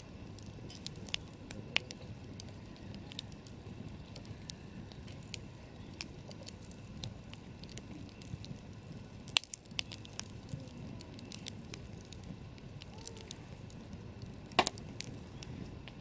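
Wood campfire crackling, with irregular small snaps over a low steady rush of flame. Two much louder pops come about nine and a half and fourteen and a half seconds in.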